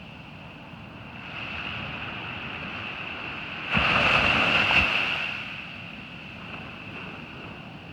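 Surf on a beach: waves washing in, with one wave breaking loudly just under four seconds in and fading over the next two seconds. A steady high-pitched tone runs underneath.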